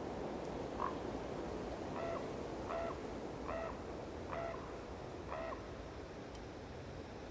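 A bird calling in the woods: one short call, then five evenly spaced harsh calls about three-quarters of a second apart.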